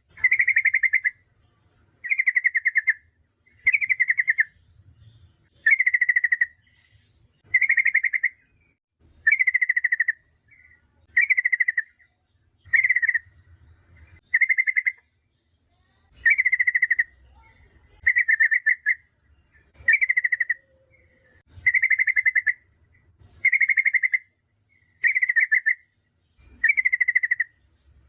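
Yellow-vented bulbul (trucukan) calling: one short, bubbly phrase repeated at an even pace about every two seconds. It is a lure call, tagged as a female calling a male.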